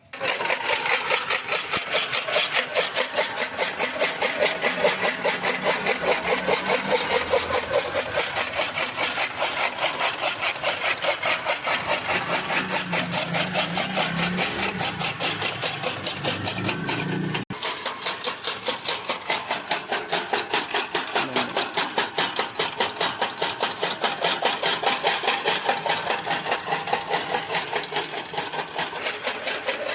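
A fodder-chopping machine (chaff cutter) running and cutting cattle fodder, with a steady chopping rhythm of about three strokes a second.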